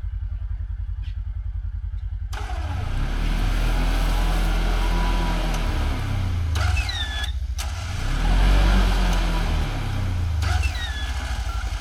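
Side-by-side UTV engine idling, then given gas twice, its revs climbing and falling back each time as the stuck machine is driven against the recovery rope in deep snow. Two short high squeals come in near the middle and near the end.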